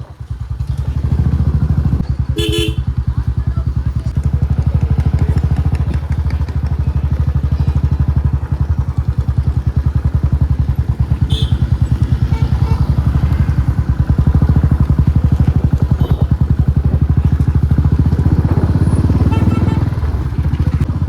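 Riding along a road: a steady, heavy low rumble of a running vehicle and wind on the microphone, with a horn tooting briefly about two and a half seconds in and more faintly a few times later.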